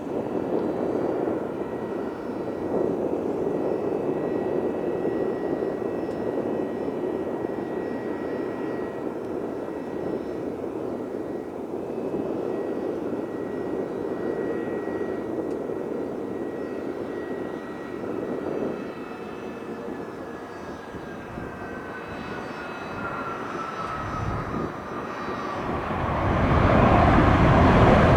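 Embraer E-175 regional jet's GE CF34 turbofans running as the plane comes in, a steady rush of jet noise with a thin high whine. Through the second half the whine slides slowly down in pitch, and in the last two seconds the engine noise grows suddenly louder.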